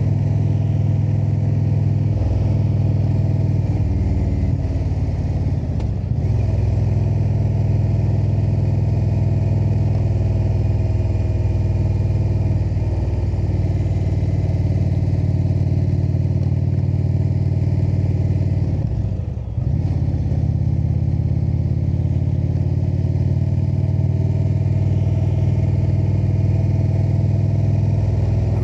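Indian cruiser's V-twin engine running at road speed, with wind rush. The engine note dips briefly about 6 seconds in and again about 19 seconds in, as if the throttle is rolled off, then pulls back up.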